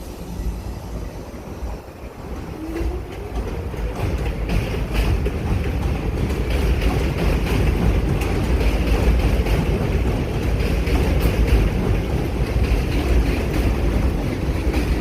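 New York City subway train running on the elevated Livonia Avenue Line: a heavy low rumble with fine wheel clatter, building over the first several seconds and then holding steady.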